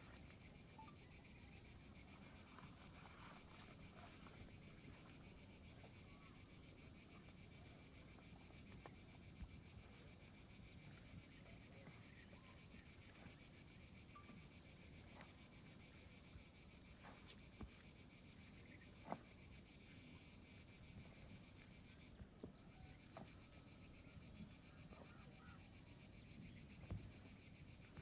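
Steady, high-pitched chorus of insects, with a brief break about 22 seconds in. A few faint clicks are scattered through it.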